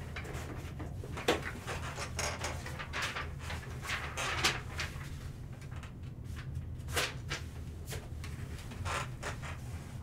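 Trading cards and packaging being handled on a table: light rustling and sliding, with a sharp click about a second in, over a steady low hum.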